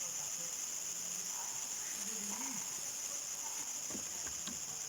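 Steady high-pitched chorus of crickets and other insects at nightfall, with faint distant voices and a few light clicks.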